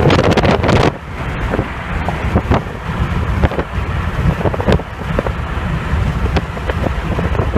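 Strong, gusty wind buffeting the microphone: a loud, continuous low rumble broken by frequent crackles, with a brief dip about a second in.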